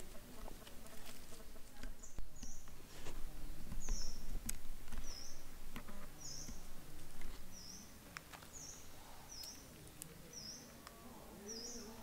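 A small bird giving a short, high chirp over and over, roughly once a second, starting about two seconds in, over a low background rumble that is louder in the first half.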